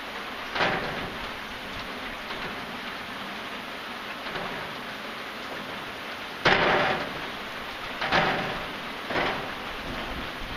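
Steady rain falling, an even hiss, with several short, sudden louder spatters of water breaking through. The loudest comes about six and a half seconds in, and smaller ones follow about once a second near the end.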